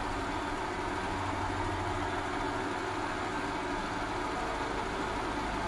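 Mazda Astina's high-mileage engine idling steadily, with some noise from the water pump mixed in, which the owner says is making a sound.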